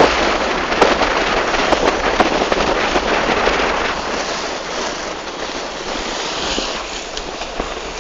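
Water splashing and spraying against a Snipe sailing dinghy's hull as it sails fast through chop, many short sharp hits over a steady rush, with wind buffeting the microphone.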